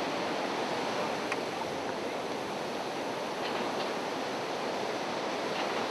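Steady rushing wash of sea surf, even in level throughout, with a few faint, brief higher-pitched sounds.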